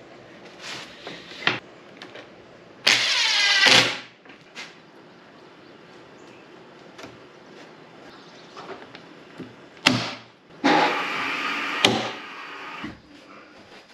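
A handheld electric power tool runs in two bursts: a short one with a changing pitch about three seconds in, and a longer one near the end. There are a few sharp knocks around them.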